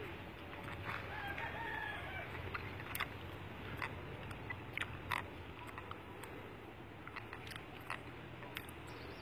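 A drawn-out bird call lasting about a second, starting about a second in, over scattered short ticks and chirps and a low steady hum.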